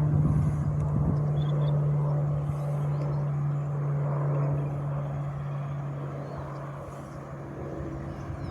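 Pilatus PC-21 turboprop trainer's propeller drone after take-off: a steady low hum with fainter overtones, fading as the aircraft climbs away.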